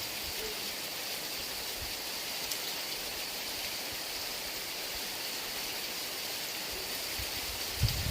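Heavy rain falling in a steady hiss. Near the end, low rumbling gusts of wind come in and the sound grows louder and uneven.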